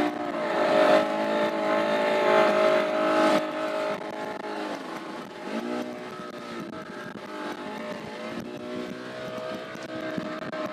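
Speedboat's outboard engine running at speed, its pitch dipping and climbing again several times as the throttle and load change. It is loudest in the first three seconds or so.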